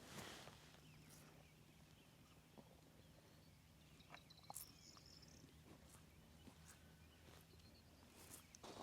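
Near silence: faint outdoor farm ambience with a few small ticks and a faint high chirp about four and a half seconds in.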